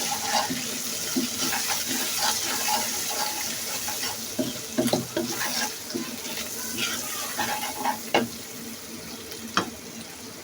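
Spiced onion-tomato masala sizzling in hot oil in a pan while a spatula stirs it, scraping and knocking against the pan. The sizzle is loudest at first and fades, and the scrapes and knocks come more often from about four seconds in.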